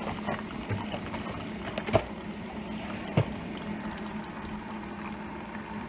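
Keurig single-serve coffee brewer pumping hot water through a K-cup on its strong setting, a steady pump hum with hot coffee streaming into the mug. Two sharp knocks, about 2 s and 3 s in.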